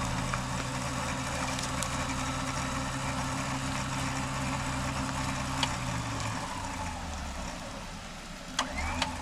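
Jeep engine idling with a steady low hum; one of its tones drops away about six seconds in, and two sharp clicks come near the end.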